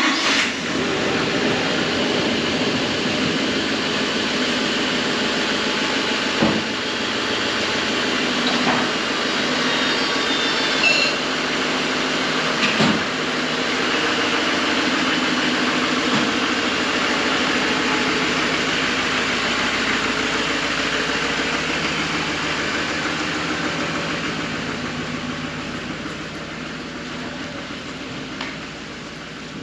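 Truck engine idling steadily just after being started, with a few brief knocks along the way; it grows gradually quieter toward the end.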